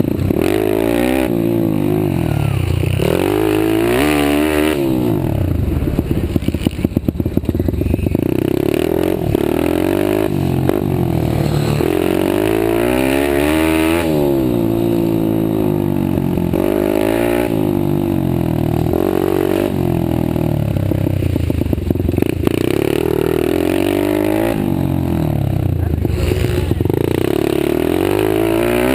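Several stock pit bike engines racing together, each revving up and dropping back over and over, their pitches crossing. About six seconds in one engine's pitch falls with a rapid stutter.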